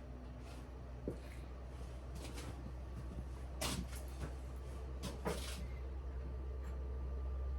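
Smithy lathe running with a steady low hum, with a few sharp metallic clicks and knocks from handling the tool and work.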